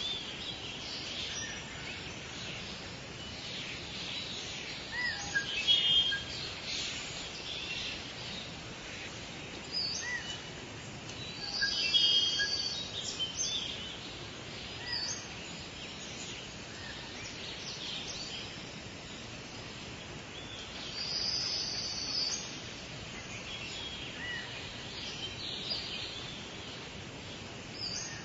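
Forest birdsong: several birds chirping and whistling over a steady background hiss. A louder high call comes about 12 seconds in and again about 21 seconds in.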